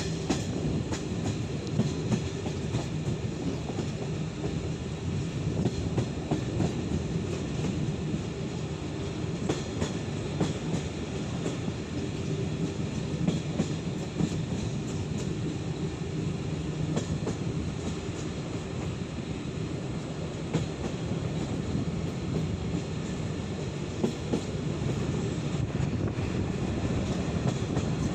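Passenger train coach rolling along the track, heard from the carriage window: a steady rumble of wheels on rail with scattered clicks and knocks.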